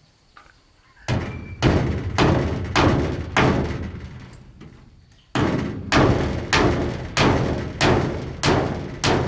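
Heavy blows striking wood, about two a second: a run of five, then after a pause of about two seconds a run of about eight more.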